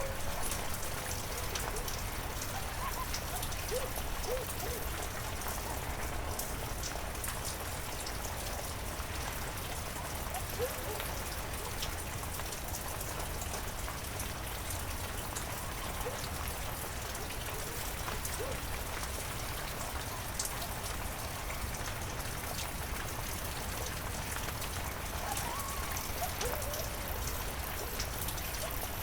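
Steady heavy rain, a constant hiss with many individual drops ticking on surfaces.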